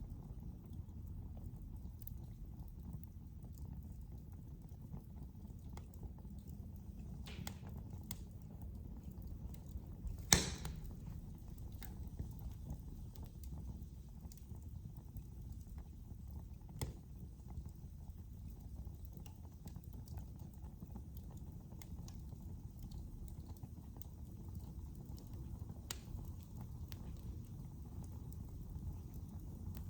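Wood fire burning in a fireplace: a steady low rumble with sparse faint crackles, one sharp loud pop about ten seconds in and a smaller pop about seven seconds later.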